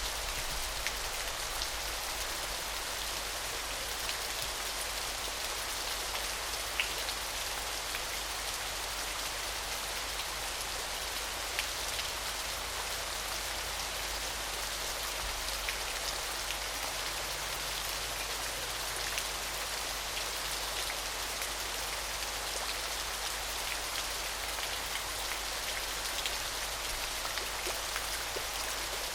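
Small waterfall splashing steadily, an even hiss of falling water with scattered drips and splashes ticking through it.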